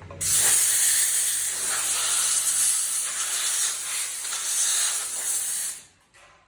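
A steady, loud hiss of air or spray forced through a nozzle, starting abruptly and cutting off after about five and a half seconds.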